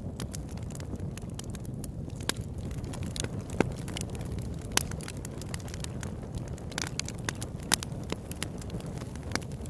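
Campfire burning with a steady low rumble of flames and irregular sharp crackles and pops of burning wood.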